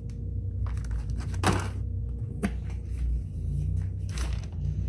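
Car parts and their packaging being handled and rummaged through: a few rustles and knocks, the sharpest about a second and a half in and again a second later, over a steady low hum.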